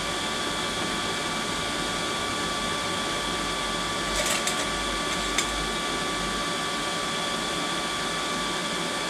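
Steady machine whir with a faint high hum, and a few light clicks about four seconds and five and a half seconds in.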